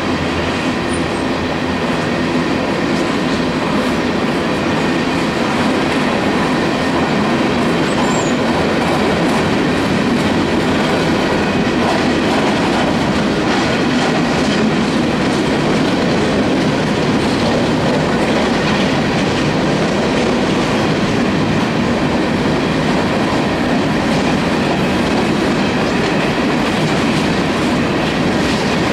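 Coal hopper cars of a freight train rolling past: the steady, dense rumble of steel wheels running on the rails.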